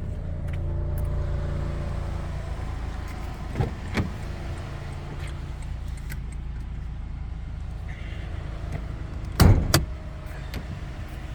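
Toyota Tundra's 3.5-litre twin-turbo V6 idling steadily. There are a couple of sharp clicks about four seconds in and two loud knocks near the end, from the hood being released and lifted.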